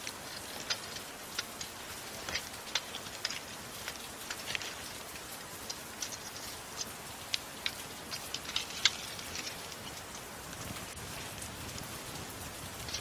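Soft rain hissing steadily, with the irregular sharp pops and crackles of a wood fire in a fireplace scattered through it; the loudest pop comes about nine seconds in.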